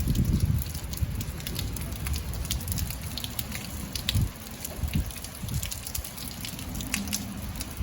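Rain falling, with many scattered drop ticks over an uneven low rumble.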